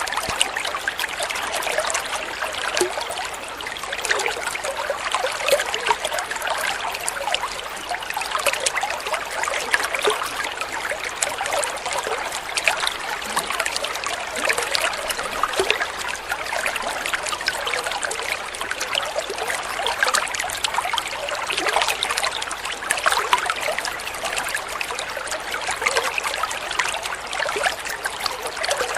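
Water flowing and trickling steadily, a continuous splashing babble like a small stream or running water over stones.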